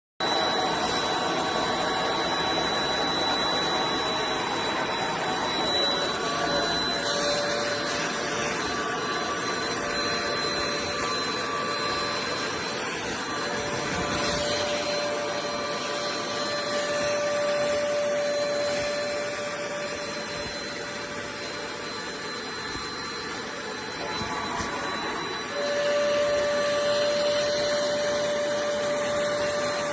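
Hoover Spotless portable spot cleaner's suction motor running steadily. Its whine changes a few times and its level drops for a while, then rises again sharply near the end.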